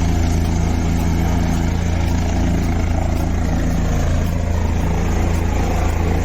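Helicopter running steadily: a loud, even low drone of engine and rotor with a fast, even beat.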